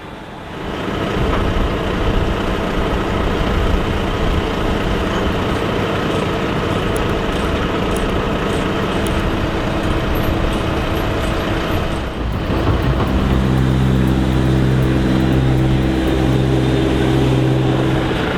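Heavy diesel vehicle engine running. About twelve seconds in, the sound changes to a steadier, deeper engine note.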